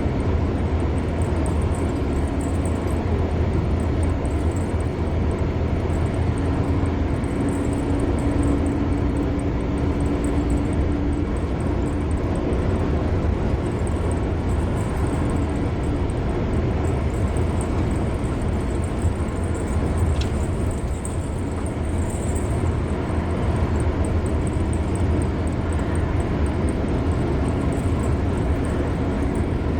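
Car driving steadily at highway speed: constant road and tyre noise with a low engine hum.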